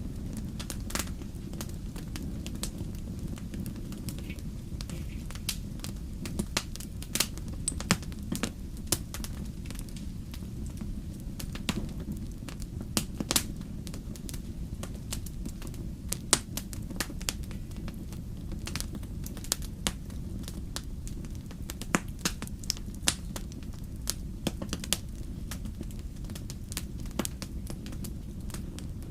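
Wood fire burning in a fireplace: a steady low rumble of the flames, with irregular sharp crackles and pops from the burning logs.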